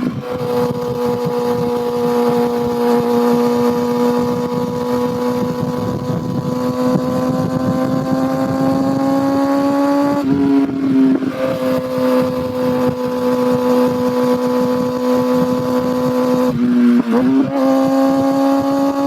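Kawasaki ZX6R inline-four engine and exhaust pulling at a steady, slowly rising pitch while riding. The note breaks briefly about halfway through and again near the end, as at gear changes, then settles into a steady pitch.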